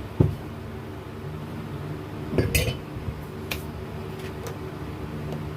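Metal alternator parts clinking and knocking as they are handled and fitted together: a sharp knock about a quarter second in, a cluster of clinks around two and a half seconds in, and a couple of lighter ticks after. A table fan hums steadily underneath.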